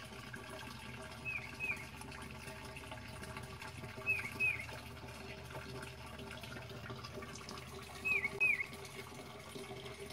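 A bird calling three times, each call a pair of short down-slurred chirps, about every three to four seconds, over a steady wash of running pond water.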